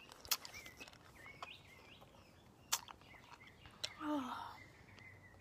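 Faint bird chirps with three sharp clicks spread through, and one short falling voice sound about four seconds in.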